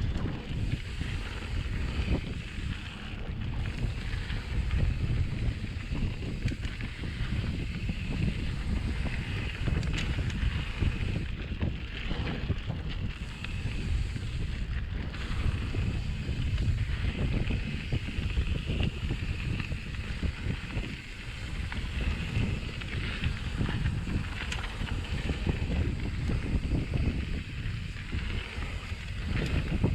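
Mountain bike riding a dirt trail: wind buffeting the helmet- or bike-mounted action camera's microphone over a constant tyre rumble, with frequent short knocks and rattles as the bike goes over bumps.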